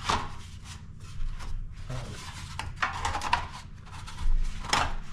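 Scrapes, knocks and light clanks from a battered metal bottom cap strip being handled and turned over, in irregular strokes over a low steady hum.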